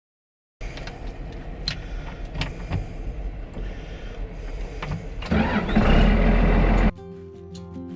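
Komatsu WA200 wheel loader's diesel engine running, with scattered clicks and knocks, then growing louder as it revs up about five seconds in. It cuts off abruptly near the end.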